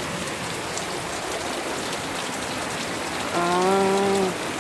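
Steady rain falling, an even hiss of drops. About three seconds in, a voice hums a single held note for about a second.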